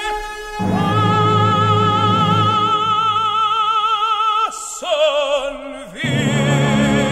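Opera singing with orchestral accompaniment. A voice holds one long note with vibrato, then glides down about four and a half seconds in, and a fuller, lower passage comes in about six seconds in.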